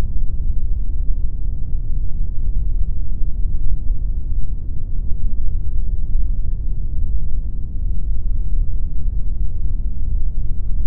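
Steady pink noise: an even, unbroken deep hiss with most of its weight in the bass.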